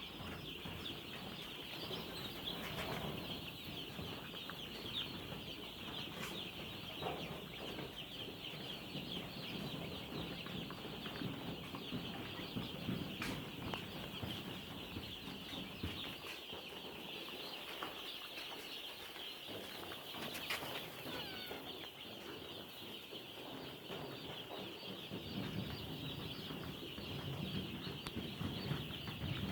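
A brood of day-old broiler chicks peeping constantly, many high chirps overlapping into one continuous chorus. A low rustling runs underneath, dropping away in the middle and returning near the end.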